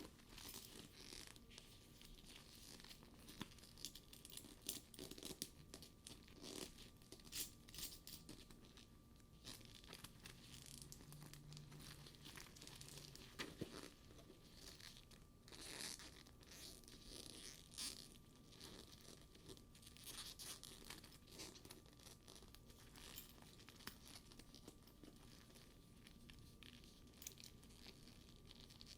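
Faint handling of a studded faux leather purse: the sticky leather surface crackles and peels under the fingers, with scattered small clicks and taps.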